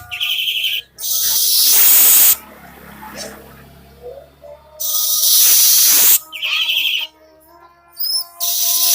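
Young weaver bird (manyar) singing over and over: each phrase is a harsh, wheezing hiss about a second long, paired with a short, rapid chatter. The phrase comes about three times.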